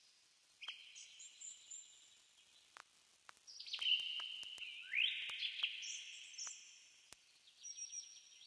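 Faint birdsong: several high trilling phrases, one rising, with a few soft clicks between them.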